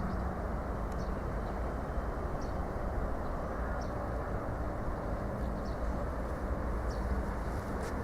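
Car driving on the road: steady, even tyre and engine noise.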